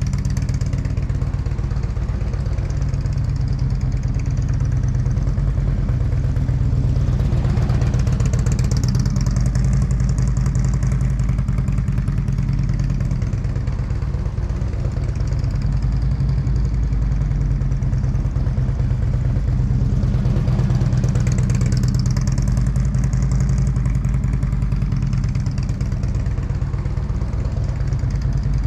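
Motorcycle engine running steadily, growing louder and brighter twice, about seven and about twenty seconds in.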